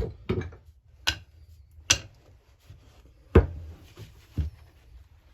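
Separate knocks and clinks of metal chainsaw parts and tools being handled and set down on a workbench, about six in all, the loudest a little past halfway.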